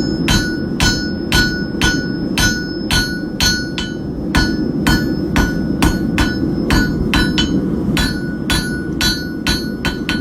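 Hand hammer striking hot steel on an anvil, about three ringing blows a second with a brief pause partway through, flattening and drawing out a hook-tool blank. A steady low rumble runs underneath.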